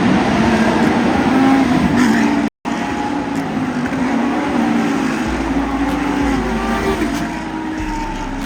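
A field of Lamborghini Super Trofeo race cars running their V10 engines together as the race starts, several engine notes rising and falling over one another. The sound cuts out completely for a moment about two and a half seconds in.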